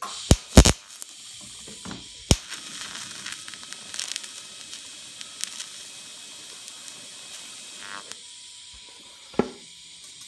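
TIG welding arc tacking a nut in place: a few sharp cracks as the arc strikes, then a steady crackling hiss for about eight seconds that stops near the end, followed by a single click.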